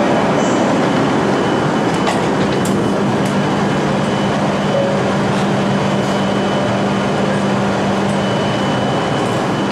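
Hokuriku Shinkansen train standing at the platform, heard from its open door vestibule: a loud, steady mechanical rush with a constant low hum, and a few faint clicks about two seconds in.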